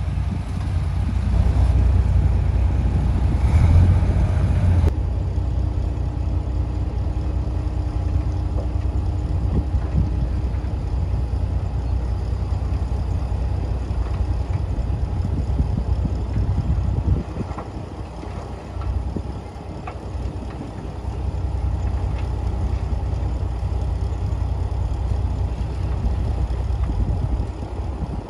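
Heavy diesel engine of earthmoving machinery running steadily at work, a deep continuous engine sound. There is an abrupt change in the sound about five seconds in, and it eases off for a few seconds past the middle.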